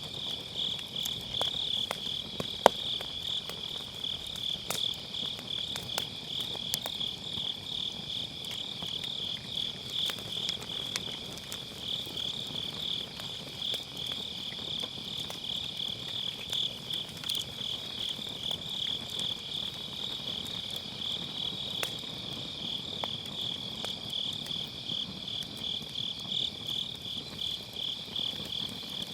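Crickets chirping in a steady, fast-pulsing trill, with a wood fire crackling in short scattered clicks; one sharp, loud pop about two and a half seconds in.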